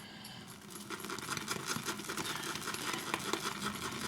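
Boar-bristle shaving brush whisking shaving lather in a bowl: a steady, wet, crackly swishing made of many fine clicks.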